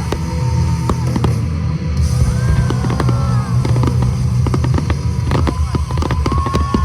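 Fireworks going off in quick bangs and crackles over loud rock music. The bursts come thicker in the second half.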